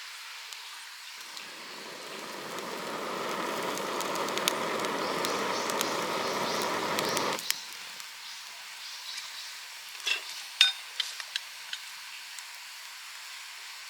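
A sizzling hiss builds over a few seconds and stops abruptly, followed by a handful of sharp crackles.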